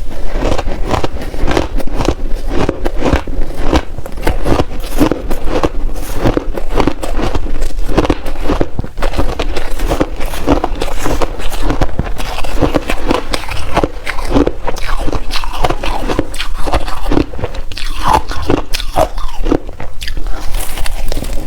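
Close-miked crunching and chewing of frozen shaved ice in big bites, a dense, irregular run of sharp icy cracks, several each second.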